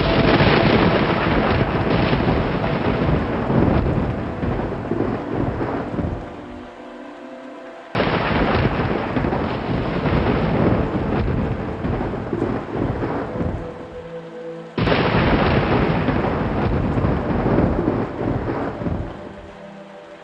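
Thunder rumbling in rain: three rolls, the second and third breaking in suddenly about eight and fifteen seconds in, each dying away over several seconds. Soft held music notes lie faintly underneath.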